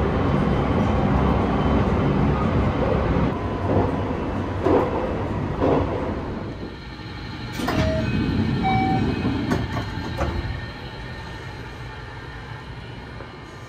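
Running noise of the Sunrise Seto/Izumo sleeper train heard from inside the carriage: a steady rumble with a few short knocks and two brief squeals about halfway. The noise falls away over the last few seconds as the train slows into a station.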